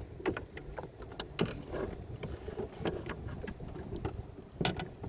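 Small boat rocking on choppy water, with small waves slapping against the hull in scattered knocks and splashes over a low wind rumble on the microphone. A sharper knock comes a little before the end.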